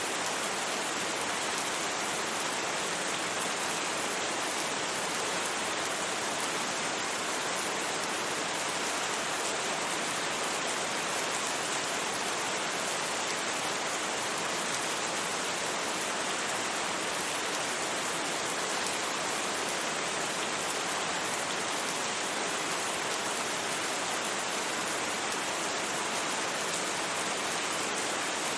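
Steady rain with no thunder, an even hiss without distinct drops.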